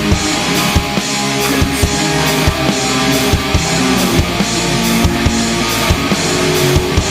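Instrumental pop-punk passage without vocals: guitars playing over a drum kit keeping a steady beat.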